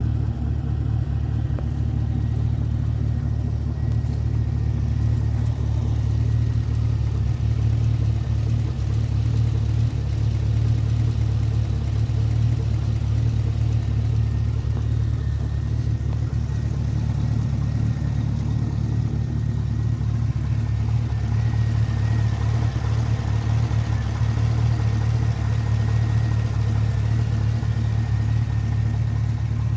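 2010 Chevrolet Camaro SS's 6.2-litre V8 idling steadily, with a lifter tick that points to a worn, poorly maintained high-mileage engine.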